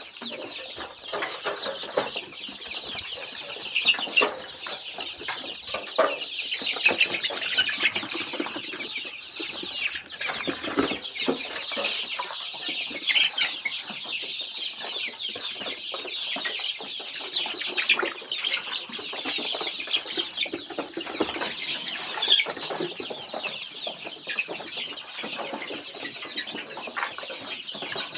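A flock of four-week-old layer chicks peeping and cheeping together in a dense, continuous chorus of high calls, with scattered sharp ticks and knocks among them.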